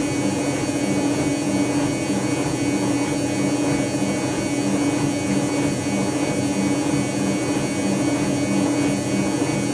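Dyson Contrarotator CR01 washing machine running with a steady hum and a lower pulsing beat about twice a second.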